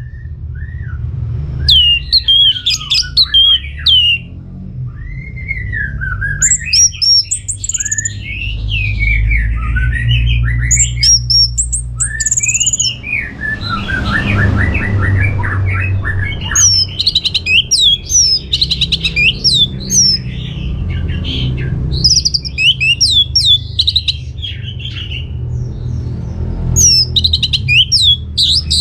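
Orange-headed thrush singing a long, varied song of quick rising and falling whistles, chirps and rapid trilled runs, over a steady low hum.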